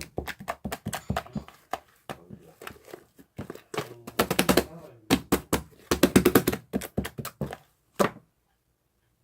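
Rapid, irregular taps and clicks in quick clusters, stopping abruptly about eight seconds in.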